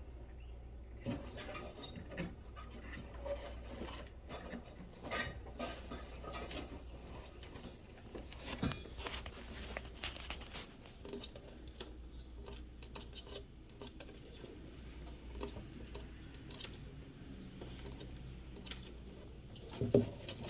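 Faint, scattered scratching and light tapping of live feeder mice scurrying about in a snake enclosure, over a low steady hum.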